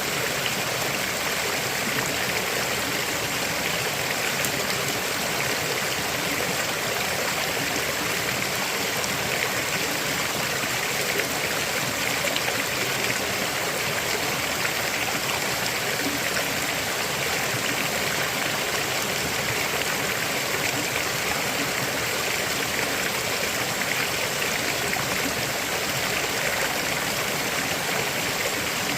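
River water flowing and splashing over stones in a steady rush.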